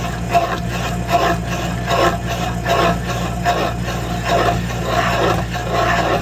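Stump planer attachment grinding into a wooden stump over a steady machine drone, the shredding noise swelling in regular pulses about every three-quarters of a second.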